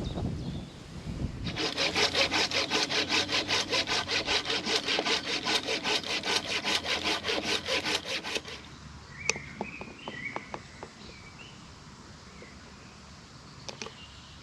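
Hand saw cutting through wood in rapid, even strokes for about seven seconds, then stopping. A few light knocks follow, with birds chirping.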